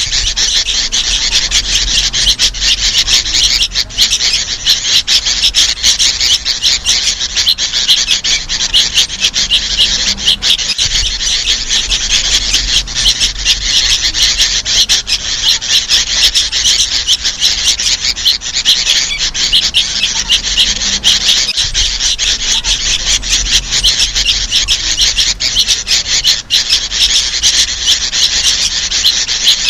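Sooty-headed bulbuls, adults and young mixed, calling in a dense, unbroken raspy chatter of many overlapping calls.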